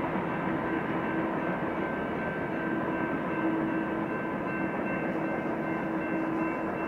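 Freight train cars rolling past, a steady rumble of wheels on rail with a faint, steady whine riding on top.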